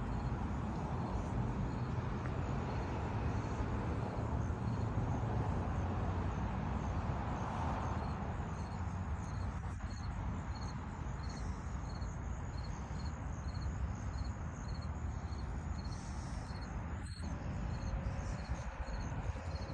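Steady outdoor ambience with a low rumble, and over it a faint high insect chirp repeating about twice a second.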